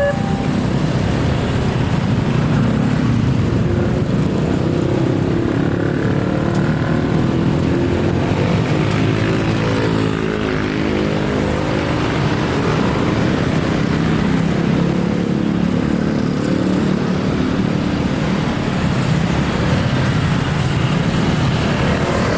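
A train passing over a railway level crossing: a loud, continuous rumble of engine and wheels with tones that shift in pitch through the middle.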